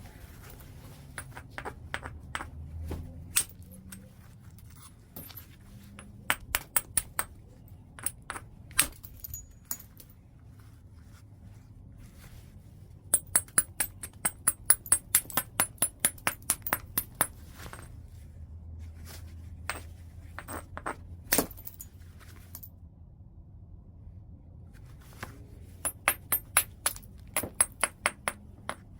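Flintknapping white chert: sharp clicks of a striker on the stone. There are scattered single taps, a quick run of about four to five taps a second starting about 13 seconds in and again near the end, and one heavier strike about 21 seconds in.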